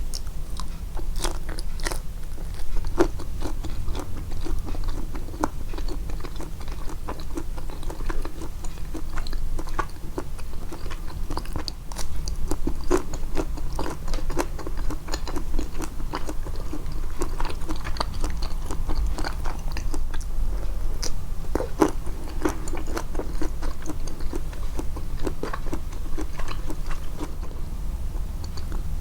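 Close-miked chewing and biting of food, a steady run of short, sharp clicks from each bite and chew, over a low steady hum.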